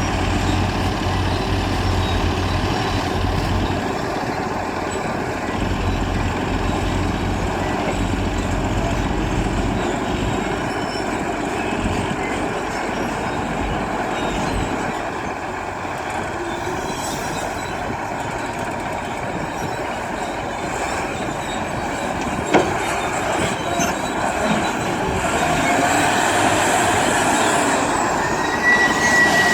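Heavy diesel engines of a wheel loader and dump truck running steadily at work, with a single sharp knock about three-quarters of the way through and a brief high squeal near the end.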